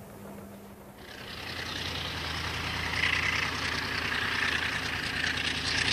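Class 35 Hymek diesel locomotive sound building up: a steady low engine drone with a rising hissing rush over it, growing louder from about a second in.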